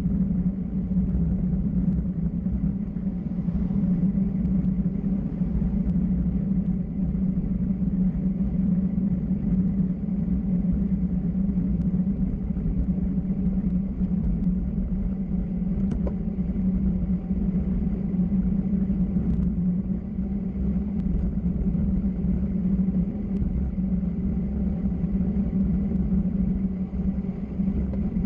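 Steady road and wind rumble of a moving vehicle, with a constant low drone and no change in pace.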